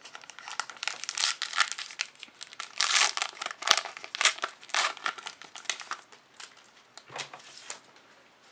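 A trading card pack wrapper being torn open and crinkled by hand, with a dense crackling rustle for about six seconds and a brief last crinkle near the end.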